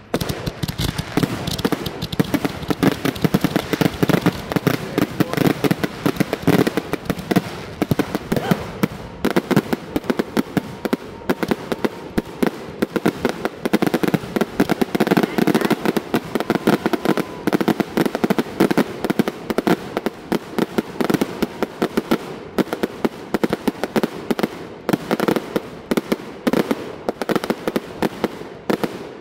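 Fireworks launched from the ground in quick succession, a dense and fast run of pops and crackles as the shots fire and burst.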